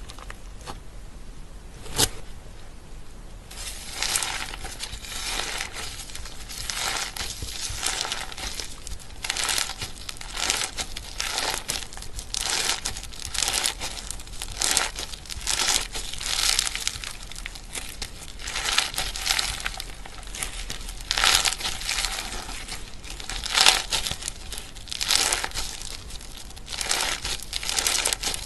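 Slime being squished and worked by hand, making a dense run of crinkly, crackling pops from about three and a half seconds in. A single sharp click comes about two seconds in.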